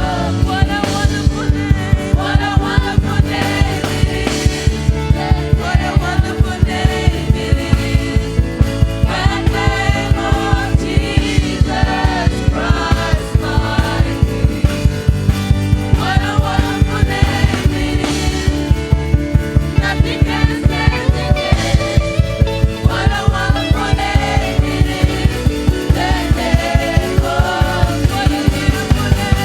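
A church worship band and singers performing a gospel song live, with sung melody over a steady drum beat.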